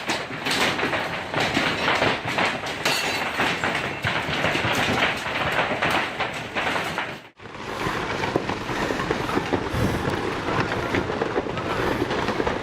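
Heavy hail pounding down, a dense, continuous clatter of hailstones striking hard surfaces. It cuts out for an instant about seven seconds in and then carries on.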